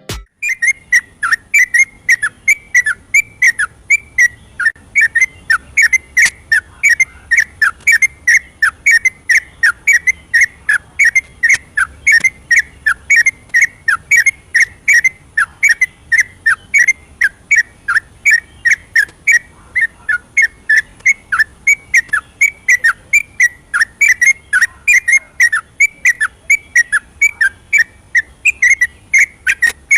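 Yellow-vented bulbul (trucukan) singing a long continuous run of short, clear whistled notes, many dipping in pitch, about three a second without a break.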